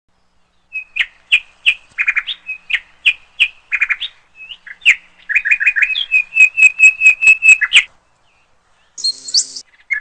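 A songbird singing: scattered sharp chirps, then a fast even run of repeated clear notes, about five a second, ending about eight seconds in. A brief, different hissing sound follows about nine seconds in.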